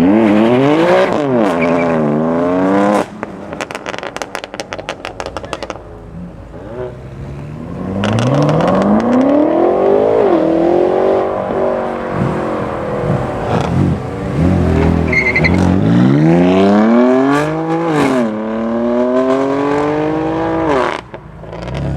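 Modified BMW M cars accelerating hard one after another, the engine note climbing and dropping back with each upshift. After the first car lifts off, about three seconds in, there is a rapid run of exhaust pops and crackles. A second car then pulls through several gears.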